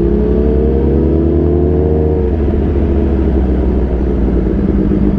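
Suzuki GSX-R750 inline-four sport-bike engine accelerating, its pitch climbing steadily for about two seconds, then dropping at an upshift and running on at a steady pitch.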